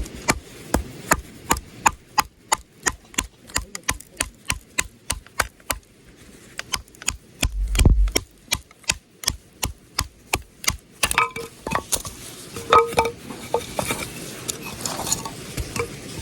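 Uniflame bushcraft knife being batoned through a piece of firewood: sharp wooden knocks, about two or three a second, with one heavier thud about halfway through. Near the end the knocks give way to irregular cracking as the wood splits.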